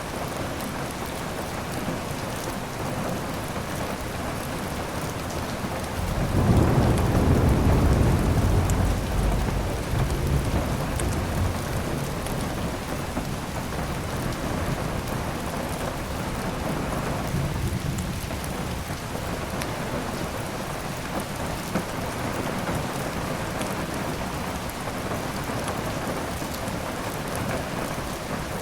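Steady heavy rain, with a roll of thunder about six seconds in that rumbles for several seconds and fades back under the rain.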